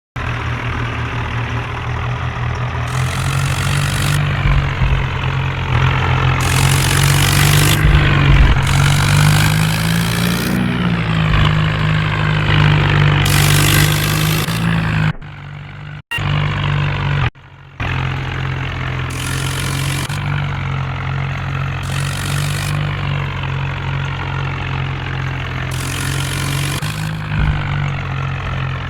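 Tractor diesel engine running steadily, with several louder surges spread through, and two brief cut-outs midway.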